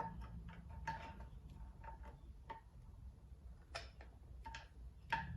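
Faint, irregular metallic clicks and taps, about half a dozen, some with a brief small ring: a screwdriver working at the screws of an outboard motor's exhaust cover.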